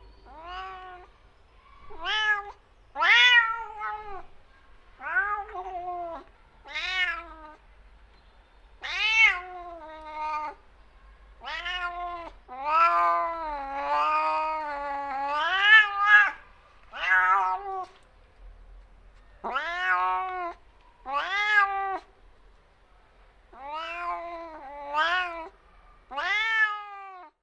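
Domestic cat meowing over and over, a series of rising-and-falling meows, one of them drawn out for about four seconds near the middle.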